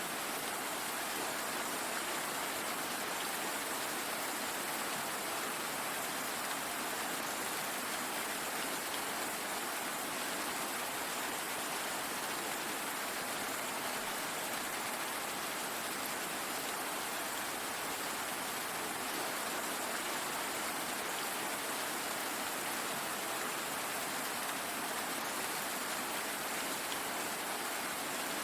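Steady, even rain falling, an unbroken hiss of dense raindrops with no single drops or thunder standing out.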